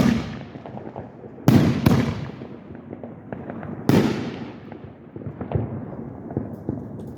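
Aerial fireworks bursting: two loud booms about two and a half seconds apart, each trailing off, with scattered smaller pops and crackles between them.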